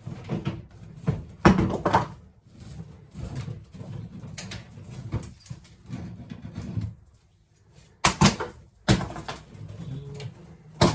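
Irregular knocking, scraping and rustling of plaster, lath and old nest debris being pulled out of a ceiling cavity by hand, with a few sharp thuds, the loudest one and a half seconds in and about eight seconds in.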